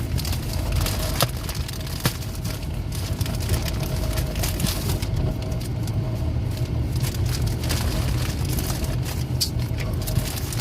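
Steady low rumble with scattered clicks and crinkles of plastic packaging being unwrapped and handled.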